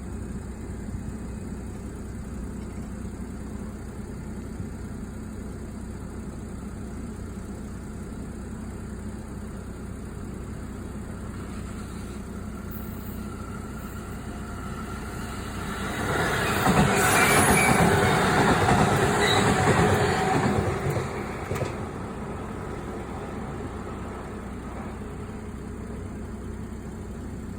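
A JR Central 313 series electric train pulls away from a station platform. A steady low hum builds from about halfway through, and the train is loudest for about five seconds as its wheels and motors pass close by. The sound then drops back to the low hum.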